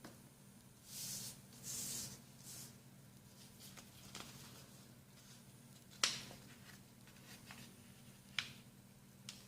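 A sheet of printer paper being folded by hand: two brief rustles of paper sliding about one and two seconds in, then sharp snaps as folds are creased flat, the loudest about six seconds in.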